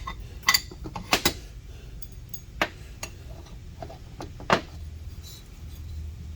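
Handling of keyway broaching tooling: about five sharp clicks and knocks, the loudest about half a second, a second and four and a half seconds in, over a low steady hum.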